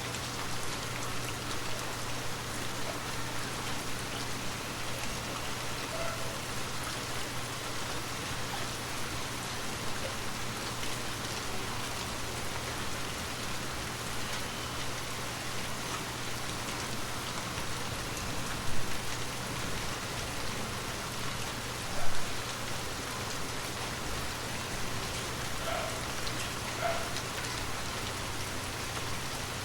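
Gentle, steady rain falling on surfaces, with two louder drops or drips standing out about nineteen and twenty-two seconds in.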